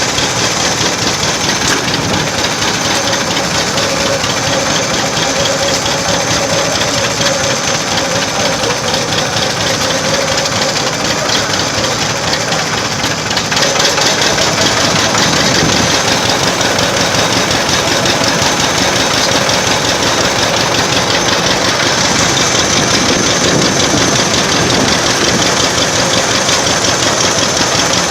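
Vintage tractor engine running steadily with an even, rapid firing beat, heard from close by on the machine. It gets a little louder about halfway through.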